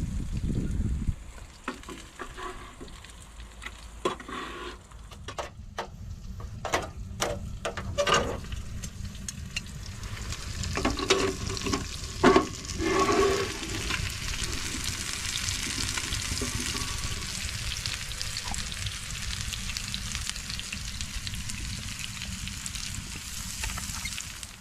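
Sizzling as of food frying, with a series of sharp knocks and clatters in the first half, then a steady sizzle.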